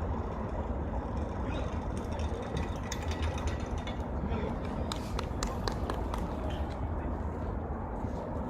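Outdoor ambience at a football pitch: a steady low rumble with a few sharp knocks about five seconds in.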